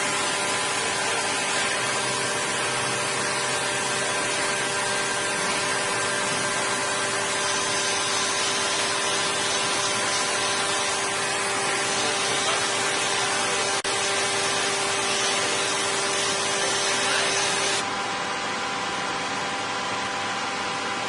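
Heavy metal-working lathe running: a steady hiss with several steady humming tones, shifting abruptly about eighteen seconds in.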